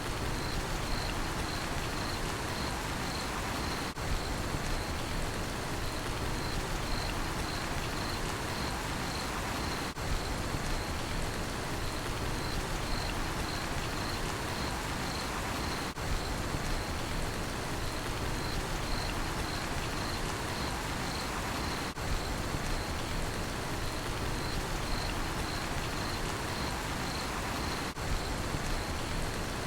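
Steady rainfall with a cricket chirping in a steady, even rhythm of short high-pitched pulses over it. The level dips briefly every six seconds.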